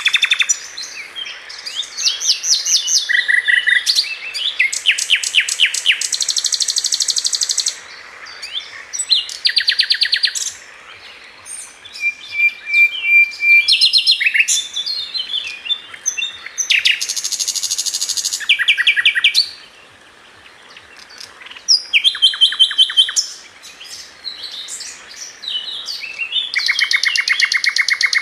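Several forest birds singing and calling over one another: fast trills, rapid runs of repeated chirps and high buzzy notes, with short lulls between bursts.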